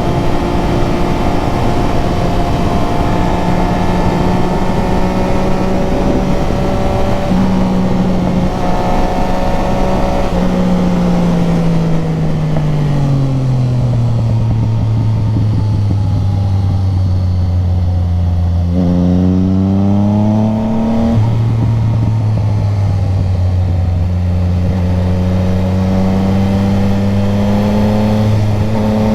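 Motorcycle engine running while the bike is ridden, over a steady rush of wind and road noise. The engine note steps and glides with gear changes and throttle: it falls away as the bike slows midway, jumps and climbs about two-thirds through, drops back at a shift, and climbs again near the end.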